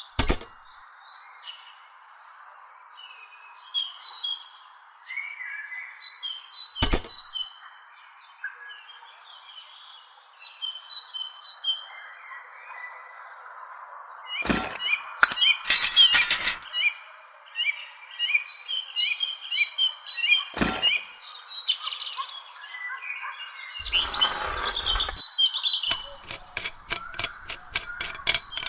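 Crickets trilling in a steady high tone with birds chirping over them, broken by a few sharp clicks; near the end a rapid run of ticks sets in, about four a second.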